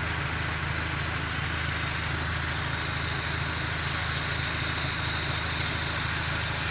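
Car engine idling steadily with the air-conditioning compressor running, a constant low hum under an even hiss. The system is charged with R134a refrigerant and running at about 210 PSI on the high side and 25 PSI on the low side.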